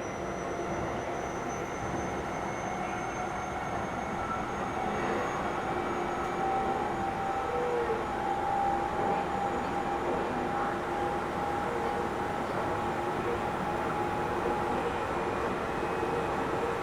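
Keio 7000 series electric commuter train running, heard from inside the passenger car: a steady rumble of wheels on rail with faint whining tones over it, growing slightly louder about five seconds in.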